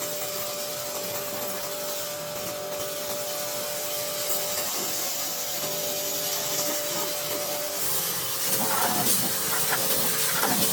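Small power tool running with a steady whine while abrading, with a rubbing, scraping noise. The whine stops about eight seconds in, and irregular scraping follows.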